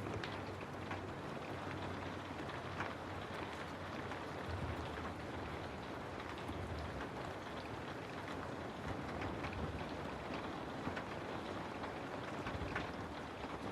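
Steady rain falling, a continuous hiss dotted with many sharp drop taps, over a low rumble.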